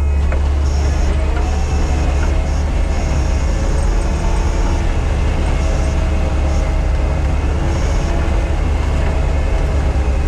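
Crawler dozer's diesel engine running steadily under load, with a heavy, constant low drone and a faint high whine that comes and goes.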